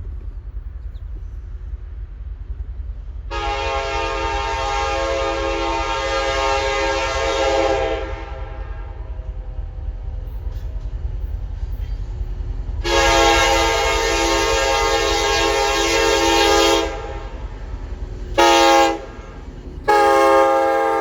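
Locomotive air horn sounding the grade-crossing signal: two long blasts, a short one, then a long one, over a steady low rumble.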